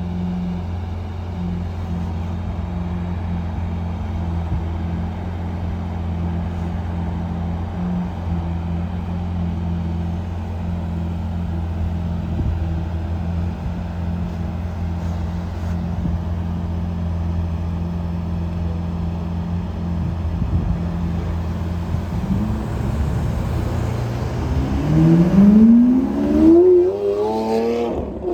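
Lamborghini Aventador's V12 engine idling steadily through its exhaust, then revving up near the end with a rising engine note that is the loudest part.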